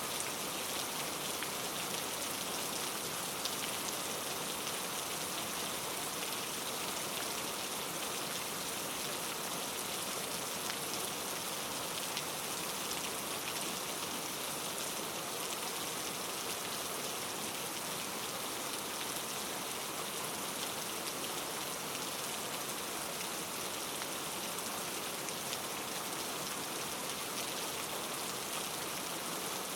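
Steady rain falling, an even hiss of many small drops pattering on a surface, with no thunder.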